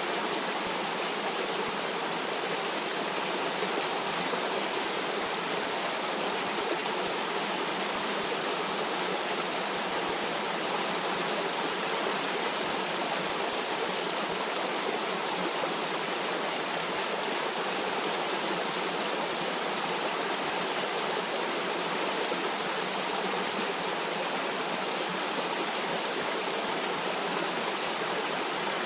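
Flowing stream: a steady, even rush of running water that does not change.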